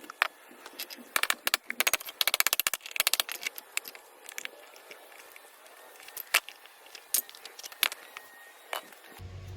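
Hand tools clicking and knocking on the metal parts of an air-conditioning condenser being taken apart: a quick run of rapid, even clicks, then a few single sharp clicks. A low steady hum comes in suddenly near the end.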